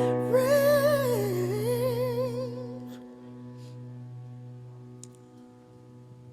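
A singer's wordless closing run with wide vibrato over a held accompaniment chord. The voice ends about three seconds in, and the chord rings on, fading out.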